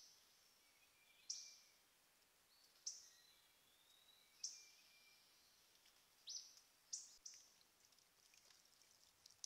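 A bird chirping faintly: about six short, sharp calls, spaced roughly a second and a half apart, coming closer together near the end.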